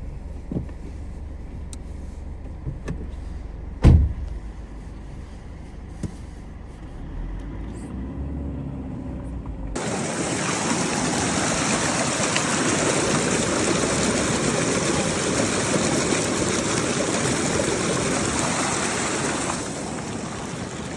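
A low, steady rumble with a few knocks. Then, about ten seconds in, the even rush of fast-running stream water starts abruptly and holds steady.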